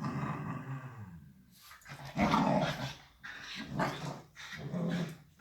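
Dogs play-growling as a Shiba Inu and a Bernese mountain dog puppy wrestle: about four rough growls, the loudest a little over two seconds in.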